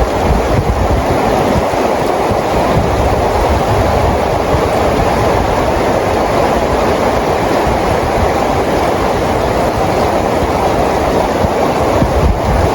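Steady rain falling, a dense, even rushing hiss with a low rumble underneath.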